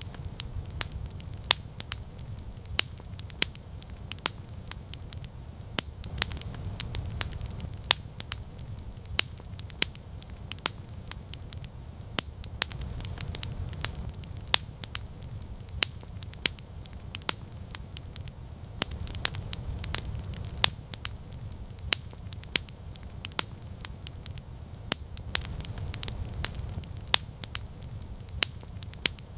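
Campfire crackling, with sharp pops and snaps several times a second over a low rumble that swells and eases about every six seconds.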